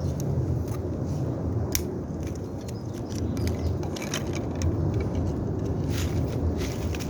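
Low rumbling wind noise buffeting the microphone, with a few sharp clicks and snaps scattered through it.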